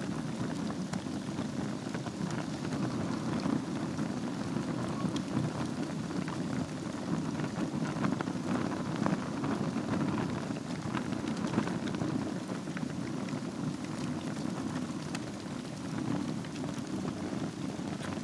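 Wood fire burning in a fireplace: a steady low rumble of flame with frequent small crackles and pops.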